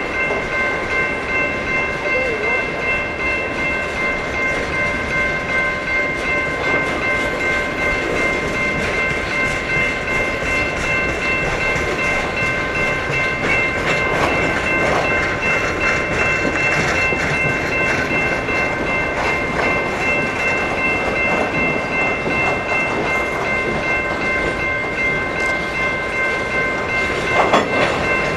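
Coal train hopper cars rolling past: steel wheels running on the rails with a rhythmic clickety-clack, and a steady high-pitched squeal held over it.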